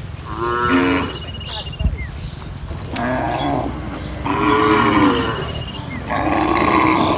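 Cattle mooing, about four calls in turn, each about a second long.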